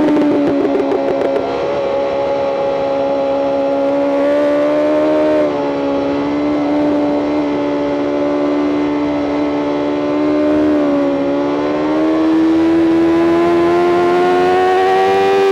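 BMW M 1000 RR's inline-four engine running at high revs at a nearly steady pitch, with small dips about five and eleven seconds in, then revs climbing slowly toward the end as the bike accelerates.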